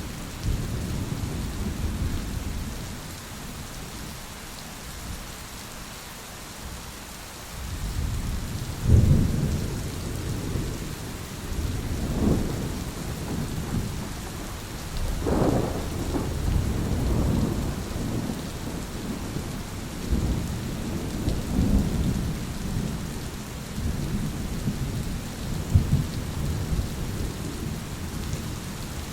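Thunderstorm: steady rain hiss with rolling thunder. After a quieter lull in the first few seconds, the rumbles build again, with the strongest rolls about nine, twelve and fifteen seconds in and smaller ones after.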